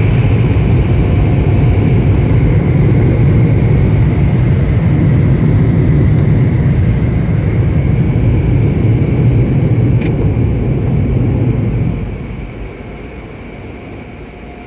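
Automatic car wash machinery running with a loud, steady rushing noise and a faint whine, dying down about twelve seconds in.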